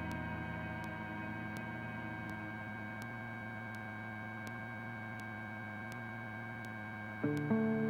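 Steady drone of a helicopter in flight, heard inside the cabin: an even hum of several held tones with faint, regular ticks. Strummed guitar music comes in near the end.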